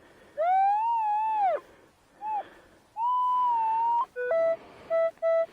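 Metal detector signal tones over a shallow buried target: a long wavering tone that rises and falls, a short blip, a steady higher tone, then a quick run of short beeps at two or three different pitches.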